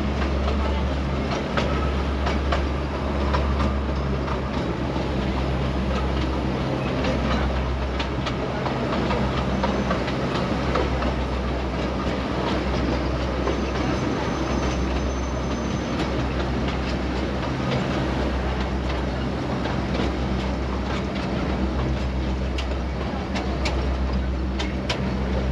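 Neral–Matheran narrow-gauge toy train running, heard from aboard a coach: a steady low drone under the clatter of wheels and coaches, with many irregular clicks as the wheels cross rail joints.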